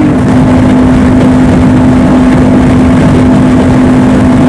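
Honda CBR500R's parallel-twin engine holding a steady note at highway cruising speed, under loud wind rush.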